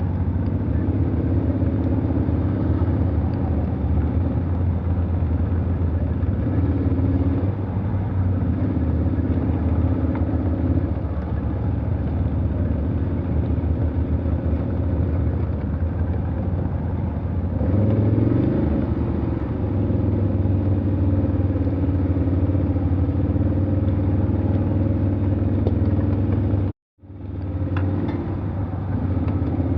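Vehicle engine running steadily at low revs on a forest track, rising briefly in revs about eighteen seconds in. Near the end the sound cuts out completely for a split second, then comes back.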